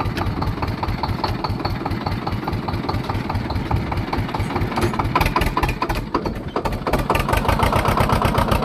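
Swaraj 724 tractor's two-cylinder diesel engine running with a steady, even beat of firing strokes. It drops away briefly about six seconds in, then comes back a little louder.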